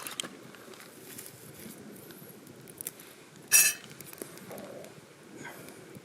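Metal camp cookware being handled, with small clicks and knocks and one sharp, ringing metallic clink about three and a half seconds in.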